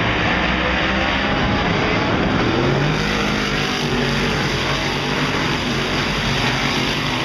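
Big-block V8 dirt modified race cars running on the oval, several engines heard at once as a loud, steady din, with one engine audibly revving up in pitch about three seconds in.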